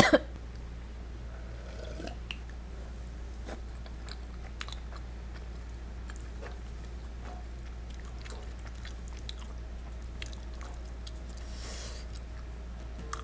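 Close-miked chewing of soft, creamy shrimp penne pasta, with scattered small wet mouth clicks. A steady low hum, the room's air conditioner, runs underneath.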